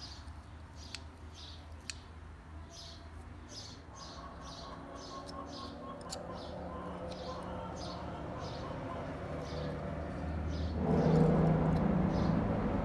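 Short high chirps repeating about twice a second, like a small bird calling, with a few light clicks of metal parts being handled. Near the end a louder low rumbling noise swells in.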